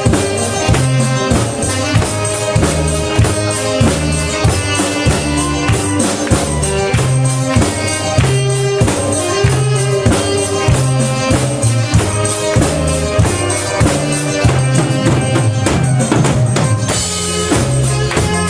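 Saxophone and drum kit playing an upbeat song with a steady beat and a bass line.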